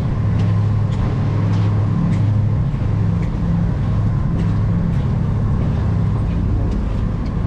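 Cruise boat's engine running with a steady, deep hum, heard on board.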